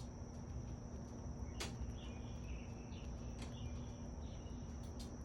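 Backyard ambience: a steady high-pitched insect drone, with a few faint bird chirps and occasional sharp clicks.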